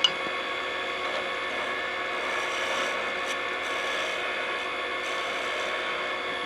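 Wood lathe spinning a hickory spatula blank while a turning tool cuts it, a steady scraping over the lathe's steady whine. A single sharp click comes right at the start.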